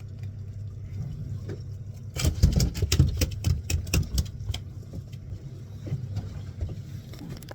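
Fishing boat's engine running with a steady low hum, with a flurry of sharp knocks and slaps for about two seconds starting about two seconds in.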